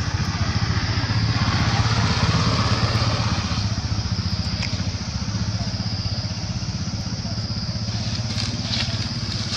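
An engine running steadily close by, with a fast even pulse, under a steady high-pitched hiss.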